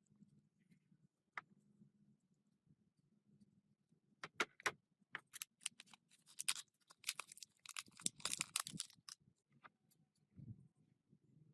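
A run of sharp clicks and clinks, densest in the middle, over a faint low steady hum: small hard objects being handled.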